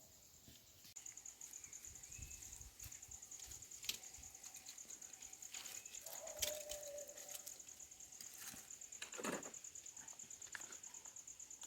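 Faint high-pitched insect trill, a fast even pulsing that starts about a second in and keeps going, with a few short clicks over it.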